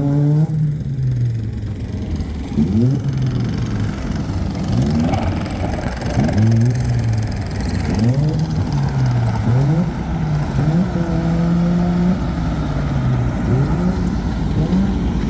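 A car engine being revved over and over in short blips, its pitch climbing and falling back every second or two over a steady low rumble.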